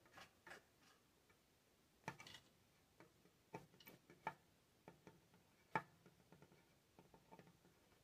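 A northern flicker moving about inside a closed wood-burning stove, making a dozen or so irregular, faint taps and knocks against the firebox and glass door. The loudest tap comes nearly six seconds in.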